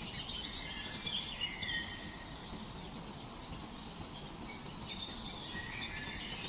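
Small birds chirping and singing in quick twittering phrases, busiest in the first two seconds and again near the end, over a steady low rumble of background noise.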